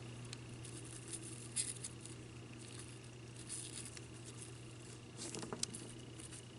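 Faint handling sounds of close-up craft work: a few soft taps and rustles as fingers and tweezers work gold foil onto a small ornament, over a steady low hum.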